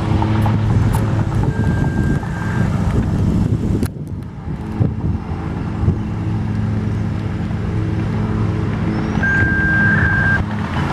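Motor vehicle engine running steadily with a low hum. A short, steady high-pitched tone sounds twice, about a second long each time.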